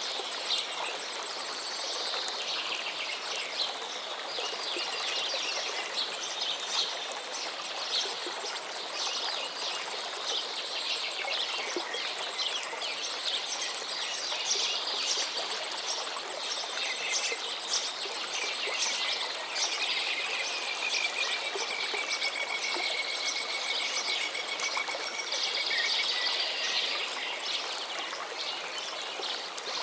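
Flowing water with many small songbirds chirping and singing over it; about two-thirds through, a single long, level whistle is held for several seconds.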